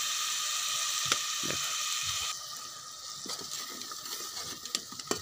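Onions, chillies and ground masala sizzling in hot oil in a metal pot. The hiss eases about two seconds in, and a few light clicks sound.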